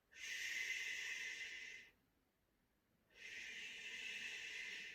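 A woman makes two long, hissing "shh" hushing sounds with her mouth, each about two seconds, with a short pause between them: the sound for a doll going to sleep.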